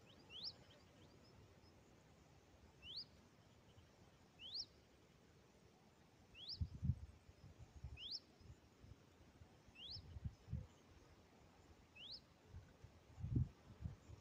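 A bird repeats a short, rising whistled call eight times, about every one and a half to two seconds, faint against the open-air background. Irregular low rumbles start about halfway through and grow louder near the end.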